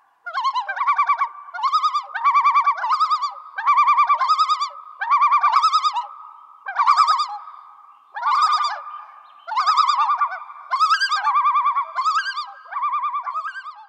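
Bird calls: a quick, warbling trill repeated about a dozen times, roughly once a second, over a steady high note.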